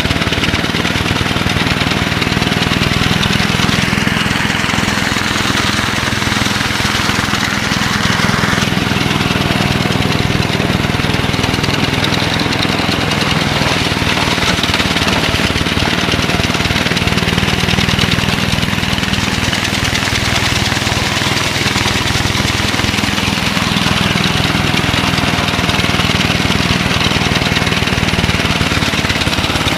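Small engine of a 1962 David Bradley Sears garden tractor running steadily with a fast, even firing beat, its speed holding level.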